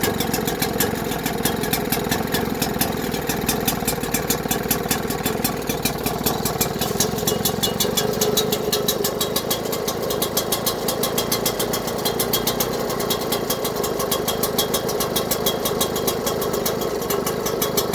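Seagull 4 HP two-stroke single-cylinder outboard motor running at a steady speed, with an even, rapid firing beat.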